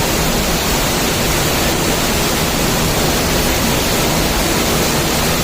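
Steady loud rush of a mountain stream or waterfall in a canyon, an even roar of water with no breaks.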